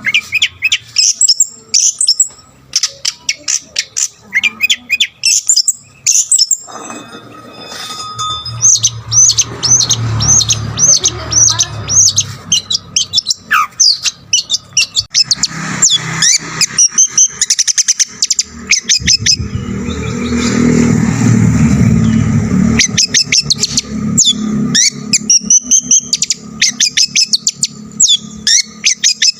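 Long-tailed shrike (cendet) singing a loud, fast run of sharp chirps and trills packed with mimicked calls of other birds. A low rumble runs underneath for a few seconds past the middle.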